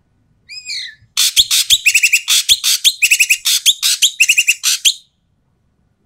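Ekek keling bird calling: a short call, then about four seconds of loud, harsh, rapid chattering that stops suddenly.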